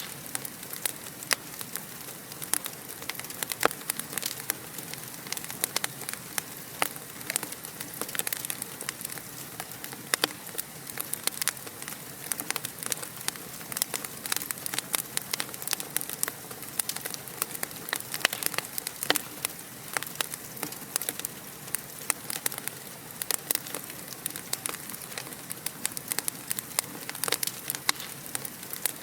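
Fire crackling in a fireplace: frequent, irregular sharp pops and snaps over a steady hiss.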